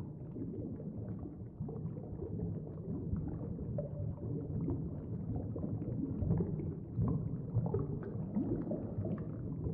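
Low, rumbling ambient soundtrack bed with a few faint, slow moaning glides and no clear beat.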